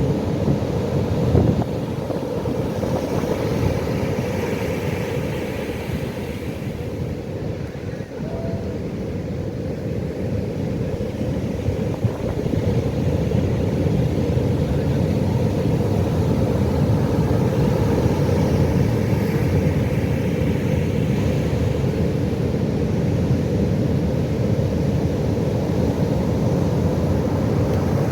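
Ocean waves breaking on a beach: a steady low rumble of surf, swelling a few times as waves wash in.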